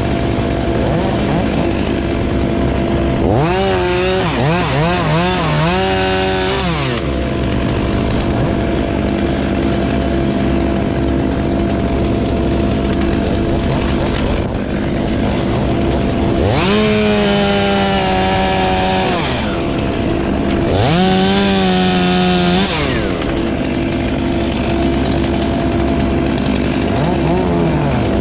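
A chainsaw's engine is revved up to full throttle and held there for a few seconds, then drops back, three times, the last two close together, as it cuts. A steady engine runs underneath the whole time.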